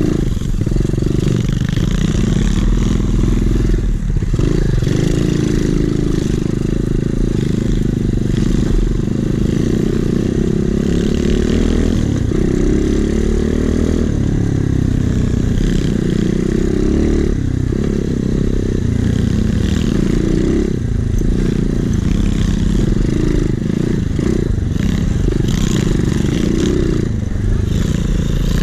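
Trailmaster 125cc pit bike engine running under a rider, its note rising and falling as the throttle is worked on and off.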